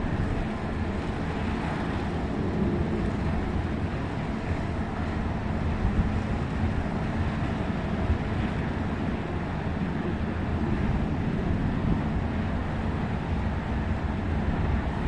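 Steady low rumble of a cruise ship's engines and machinery as it manoeuvres, with an uneven low-end buffeting.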